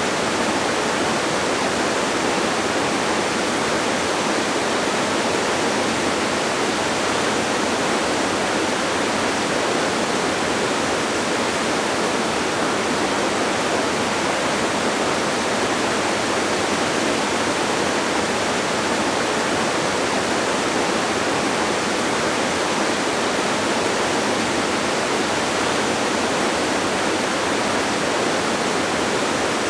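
Waterfall: a steady, unbroken rush of falling water, even throughout, with little deep rumble.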